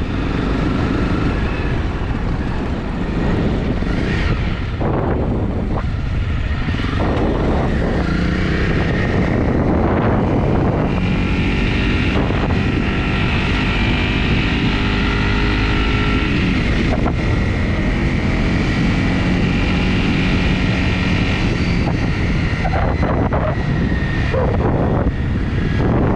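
Honda CRF250 motorcycle's single-cylinder engine running on the move, under heavy wind rumble on the microphone. Its pitch holds steady and shifts a few times along the way.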